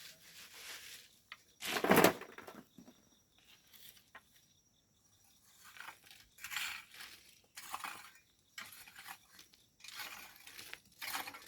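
Hand tools scraping and clinking on stone and sand, with one hard knock about two seconds in and scattered shorter scrapes and knocks through the second half.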